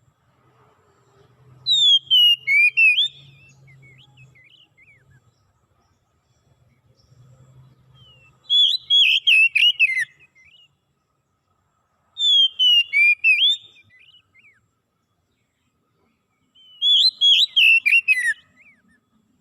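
A songbird singing four loud phrases, each a rapid run of sliding whistled notes that mostly fall in pitch, several seconds apart, with faint chirps between them.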